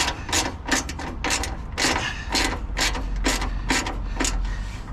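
Socket ratchet wrench clicking in repeated short strokes, about two a second, as it tightens the 13 mm nut on an exhaust tip clamp.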